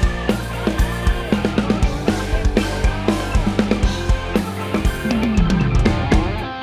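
Live rock band playing an instrumental passage: a drum kit with kick and snare keeps a steady beat under guitar.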